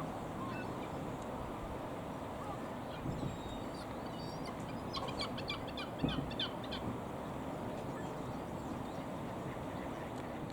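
Waterfowl calling over a steady rushing background, with a flurry of short calls about five to seven seconds in.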